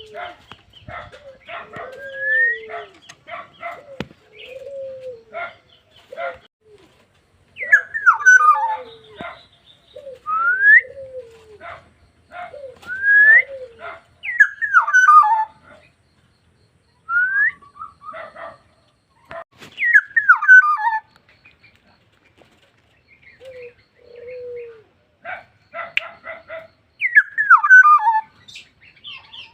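Black-naped oriole singing: loud, clear whistled phrases, some rising sharply and some tumbling down in pitch, repeated every few seconds. The song is mixed with lower, falling call notes and many short, sharp clicks.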